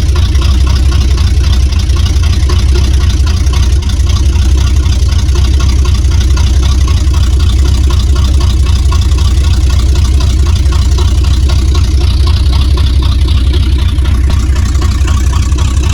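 Car engine idling steadily on a cold start, still warming up, with a deep, even rumble.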